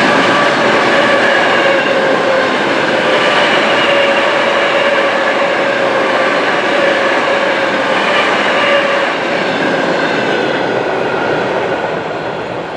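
Electric train passing close by: a loud steady rush of wheels on rails with several held high tones over it, easing off near the end.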